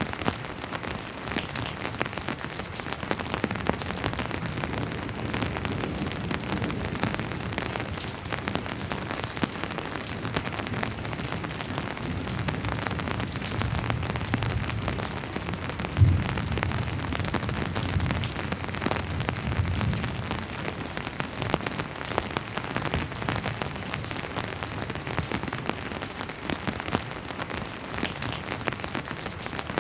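Steady rain, with many separate drops pattering close by. Partway through, a low rumble of distant thunder builds and fades, with one sudden loud low thump about halfway through.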